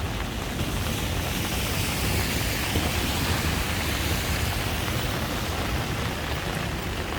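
Steady hiss of heavy rain on a wet city street mixed with traffic noise, swelling slightly in the middle.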